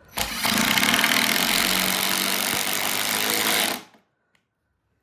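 Power drill running under load for about three and a half seconds, driving a screw into timber, then stopping suddenly.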